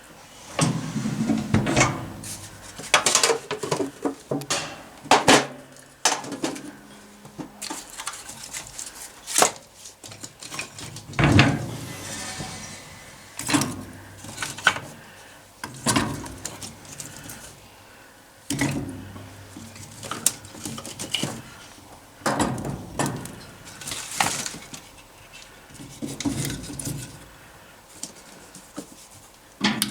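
Kitchen clatter while cooking: dishes, pans and utensils knocking and clinking in a string of separate hits every second or so.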